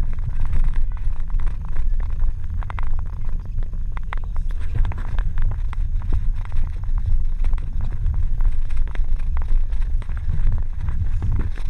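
Wind buffeting the microphone while riding a mountain bike on a snowy road, a steady low rumble with scattered crackling clicks throughout.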